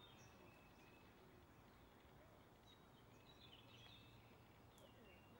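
Near silence: a faint hiss with scattered short, falling bird chirps.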